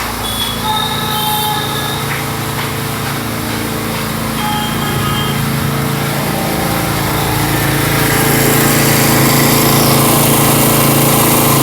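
Honda EGK 1600 kerosene portable generator engine running steadily, getting louder about eight seconds in.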